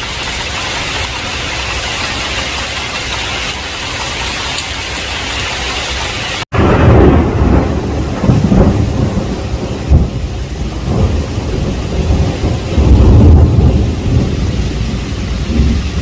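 Heavy rain hissing steadily. About six and a half seconds in, the sound cuts out for an instant, and a long roll of thunder follows, rumbling deep in several swells over quieter rain.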